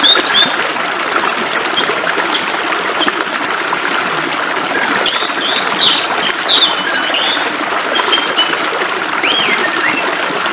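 Flowing water running steadily, with songbirds chirping short calls over it, more of them about halfway through and near the end.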